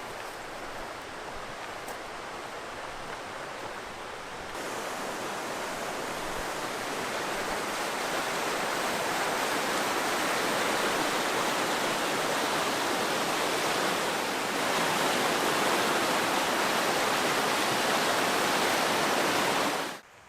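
White water rushing where the lake drains into the river: a steady rush that gets louder about four seconds in and keeps building, then cuts off suddenly near the end.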